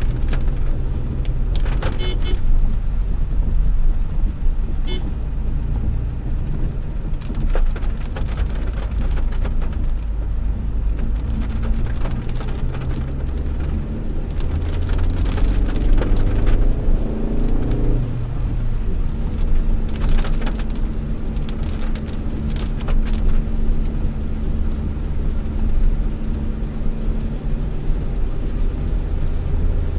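Honda Elevate's 1.5-litre four-cylinder petrol engine and tyres running on a wet road in heavy rain, with scattered ticks of rain striking the car. About halfway through, the engine note rises as the car accelerates, then drops suddenly at a gear change.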